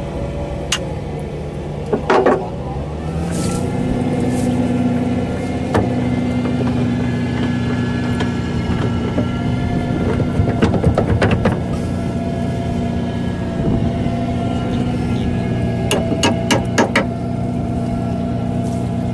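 Tractor engine running steadily; its pitch rises about two seconds in and then holds. Sharp metallic knocks come in a cluster near the middle and again near the end.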